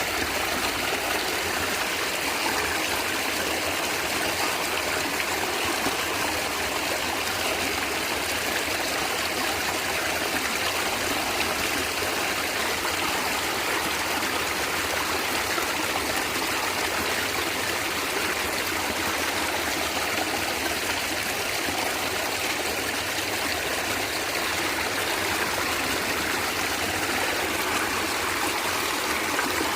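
A small stream gurgling and trickling over stones, a steady, unbroken flow of water.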